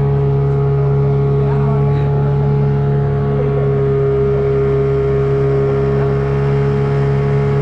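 Motorboat engine running at a steady speed, a constant drone with an even pitch.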